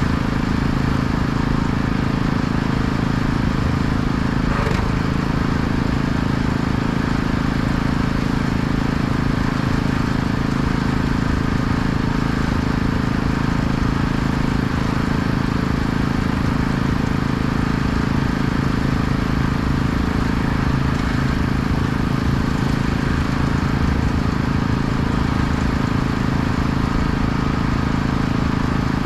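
An engine running steadily at a constant speed, with an even hiss above it.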